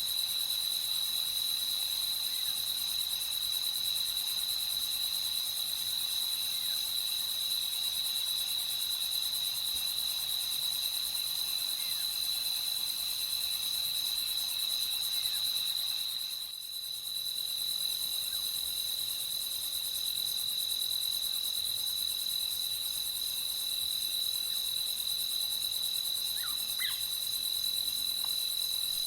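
A night chorus of crickets chirping steadily in a high, continuous trill, over a fainter high hiss of more insects. The chorus dips briefly a little past halfway, and a few faint short calls come near the end.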